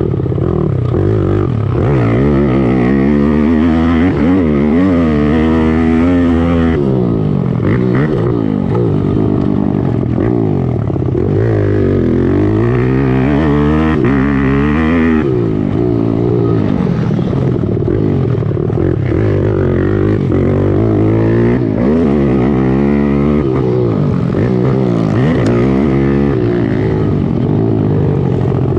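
Several racing pit bike engines revving hard and easing off again and again, their pitches rising and falling and crossing one another as the riders work the throttle and shift.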